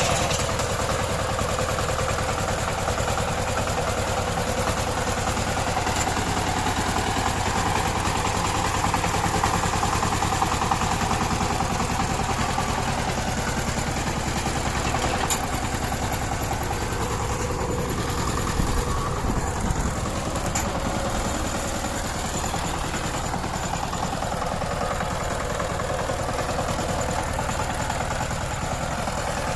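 Diesel engine of a power tiller running steadily at idle, with a rapid, even chugging.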